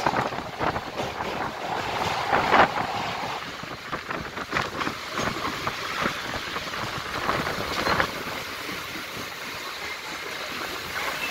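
Mumbai local train running, heard from on board: a steady rush and rumble of the moving carriage with irregular clacks of the wheels on the track, louder in the first few seconds.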